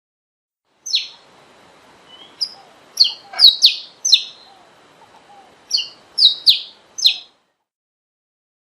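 Saffron finch calling: a series of short, sharp high notes, each sweeping down in pitch, in loose groups from about a second in until near the end, over faint recording hiss.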